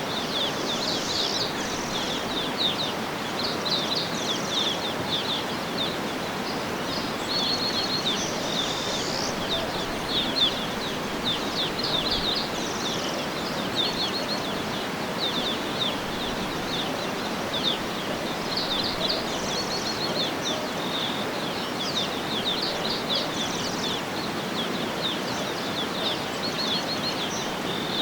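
Small birds chirping and twittering over a steady background hiss, with many short, quick chirps and trills coming one after another.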